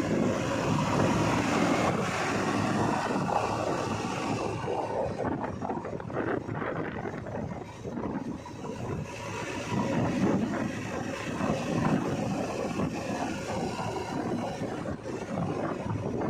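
Diesel engine of heavy earthmoving machinery running and working, its level rising and falling, with wind buffeting the microphone.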